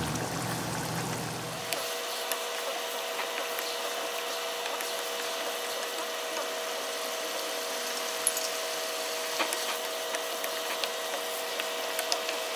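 Chicken curry with yogurt sizzling and bubbling in a wok on high heat, being fried until the yogurt's water dries off, with a wooden spatula scraping and knocking against the pan in scattered sharp clicks. A steady two-note hum runs underneath from about a second and a half in.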